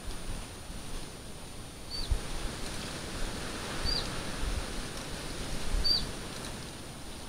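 A bird's short, high call, a quick rise and fall, repeated three times about two seconds apart over a low rumbling background noise.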